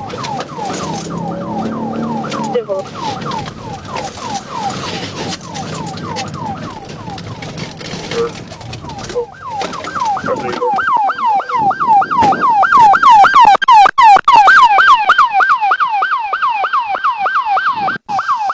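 Police car siren on yelp, rapid falling wails about three a second, with the patrol car's engine and road noise under it early on. The siren grows much louder a little past halfway.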